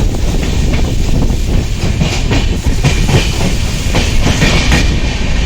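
Passenger train running, its wheels clattering over rail joints with a steady rumble and irregular clicks.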